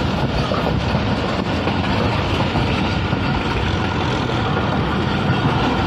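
Jaffar Express passenger train running at speed, heard from inside a coach: a steady, even rumble of wheels on rail and coach noise.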